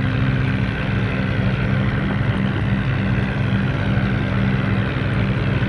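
HMT tractor's diesel engine running at a steady speed, its pitch unchanging.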